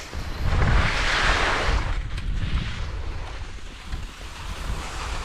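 Wind buffeting the microphone with a low rumble, over the hiss of skis sliding on snow that swells about a second in and again around two and a half seconds in.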